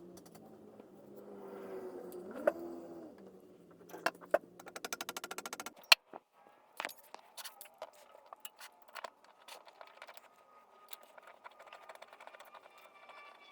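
Metal fan parts being handled and fitted: a low hum with wavering pitch at first, then a fast run of ratchet-like clicks about five seconds in ending in one sharp click, then scattered light clicks and knocks.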